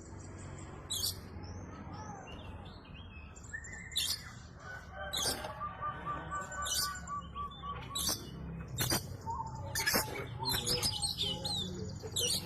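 Oriental magpie-robin (kacer) in full, varied song: sharp high chirps and whistled gliding phrases follow one another closely, with a fast repeated trill about five to seven seconds in. A low steady hum lies underneath.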